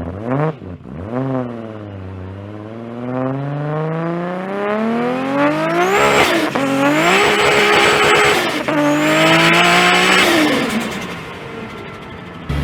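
Heavily modified big-turbo car engine accelerating hard through the gears: a quick blip, a long climb in revs, then two shorter pulls after quick shifts about six and nine seconds in, with a high turbo whistle over the engine, before it eases off near the end.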